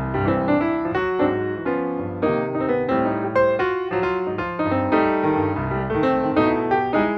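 Background piano music, a steady flow of notes with a melody over a low accompaniment.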